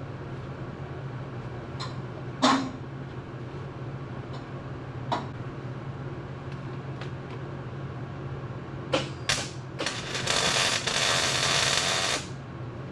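Workshop sounds: a few short clanks and knocks over a steady low hum, then a loud, even hiss lasting about two seconds near the end.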